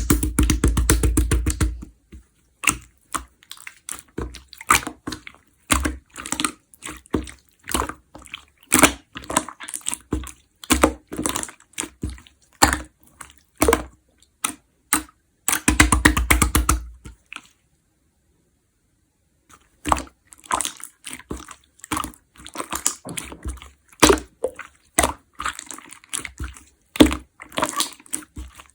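Slime being squeezed, stretched and poked by hand: sticky clicks and small air-bubble pops, with two stretches of fast crackling, near the start and around the middle.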